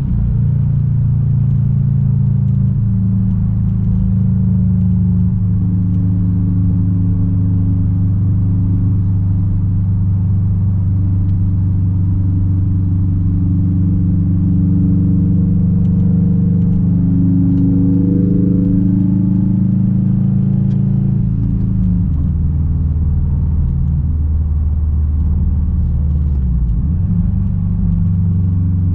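Straight-piped 2006 Subaru WRX STI's turbocharged flat-four exhaust droning at a steady engine speed while driving. About two-thirds of the way through, the note drops to a lower, steady pitch.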